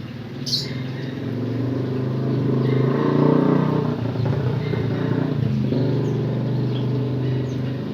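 A motor vehicle's engine running close by, growing louder to a peak about three seconds in and then holding steady, with a canary's short call about half a second in.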